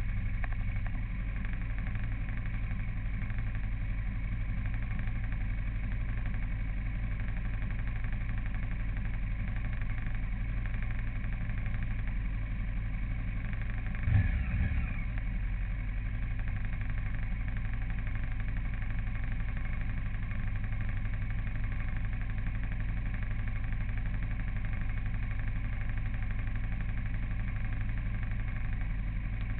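A vehicle engine running steadily while driving, an even low hum, with one short bump about halfway through.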